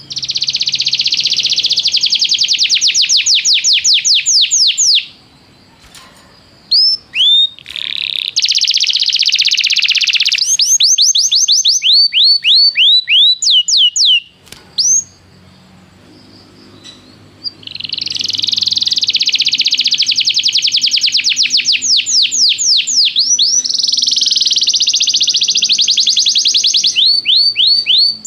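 Domestic canary singing: long song phrases of dense, rapid rolling trills that break into quick runs of repeated sweeping notes. It sings in two long bouts with a pause of a couple of seconds about halfway through.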